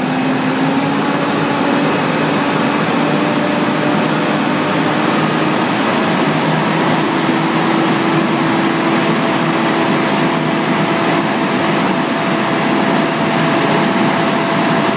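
Volvo FH truck diesel engine held at high revs, running steadily with a tone that creeps up in pitch over the first several seconds and then holds. It is being run flat out to heat the SCR catalytic converter and burn off oil that a failed turbo passed into it.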